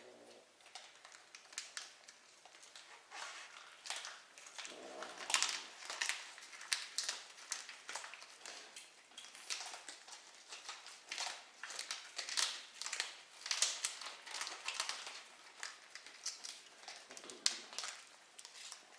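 Kitten giving short mews about five seconds in and again near the end, over a run of rapid, irregular small clicks.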